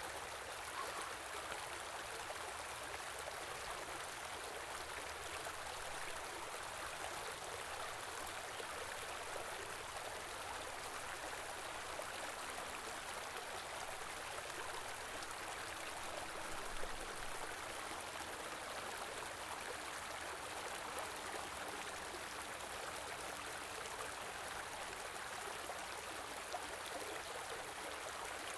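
A small river or stream flowing steadily, a continuous even rushing and babbling of water, with one brief low bump about 17 seconds in.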